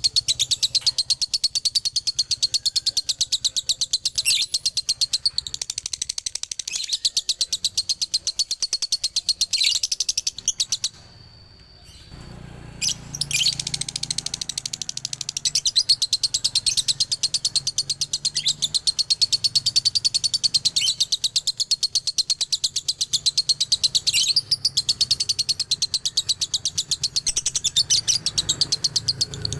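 Male lovebird singing a long, rapid, high-pitched chattering trill, broken off for about a second partway through and then resumed.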